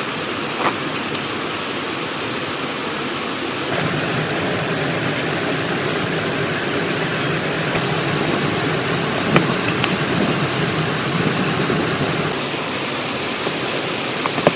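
Steady hiss of falling or running water, with a couple of faint knocks about a second in and about nine seconds in.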